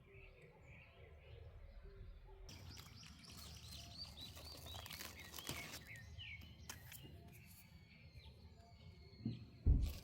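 Wild birds chirping in the open, with a quick run of short, repeated chirps in the middle. A loud low thump comes near the end.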